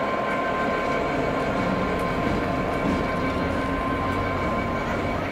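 Train running steadily, with a few held high tones over a low rumble.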